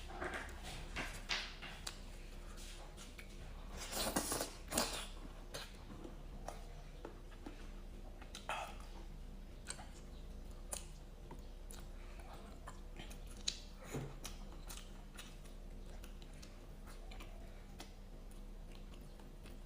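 Close-miked eating: chewing with scattered small clicks and a few louder crunchy bites about four to five seconds in.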